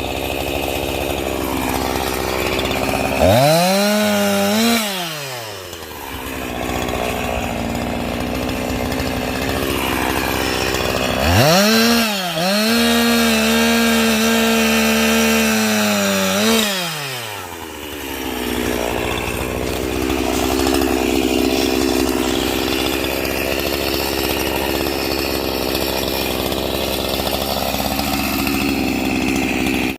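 Two-stroke chainsaw running continuously while cutting oak. It revs up twice, about three seconds in and again about eleven seconds in, the engine pitch rising, holding for several seconds the second time, then falling back.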